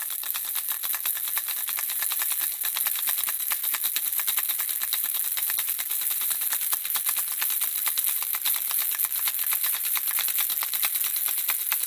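Handheld baby rattle shaken without pause: a rapid, steady stream of small objects clicking inside it.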